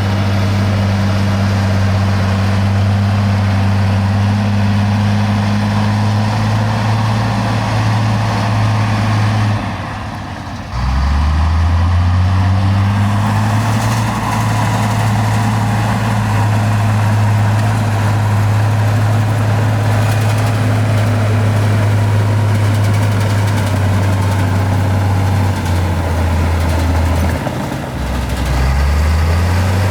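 Heavy diesel engine of earthmoving machinery running steadily. About ten seconds in its speed briefly sags and then climbs back up, and it dips and recovers again near the end.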